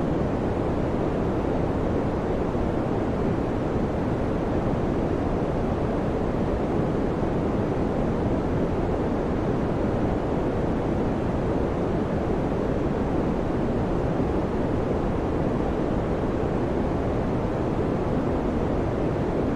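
Electric fan running steadily: an even, deep whooshing rush with no hum, rhythm or change.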